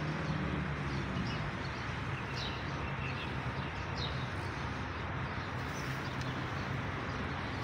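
Steady outdoor background with a low hum, and short high chirps of small birds scattered every second or so.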